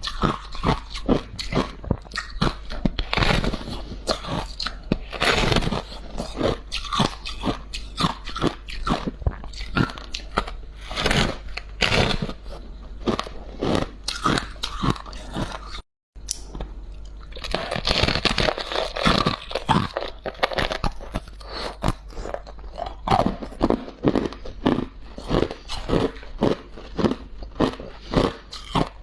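Close-miked chewing of soft freezer frost and ice: a rapid, irregular run of crunches, several a second, broken by a momentary cut to silence about halfway through.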